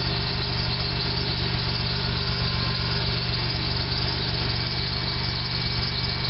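Pontiac Grand Am GT's 3.4-litre (3400) V6 idling steadily through its original dual exhaust shortly after a cold start.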